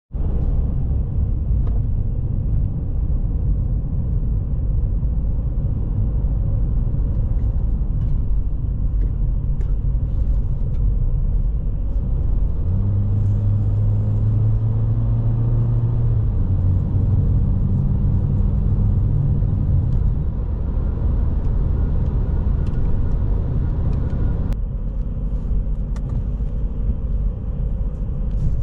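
A car driving: steady low road and engine rumble. A steady low hum joins in about halfway through and drops away several seconds later.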